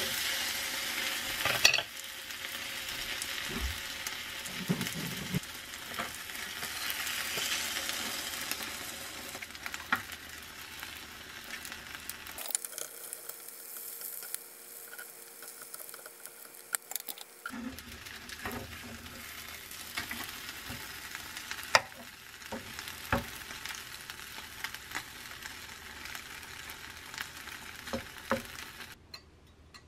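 Vegetables, cheese and egg sizzling in a frying pan over a gas burner, with a spatula and chopsticks stirring and scraping in the pan. In the second half there are scattered sharp taps of the utensils against the pan.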